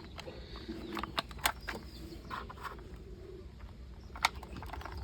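Light plastic clicks and taps as a toy wheel is handled and pressed onto the front axle of a plastic toy truck, with a sharper click about four seconds in.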